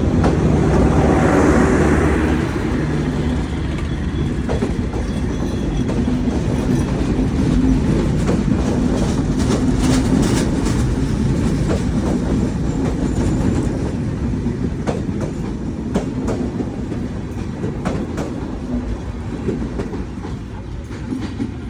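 Train running along the track: a steady low rumble of rolling wheels, with a run of sharp clacks from the wheels over the rail joints through the second half.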